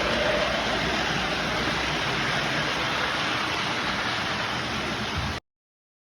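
Lionel model trains running: a steady, even rumbling noise that cuts off abruptly to dead silence about five seconds in.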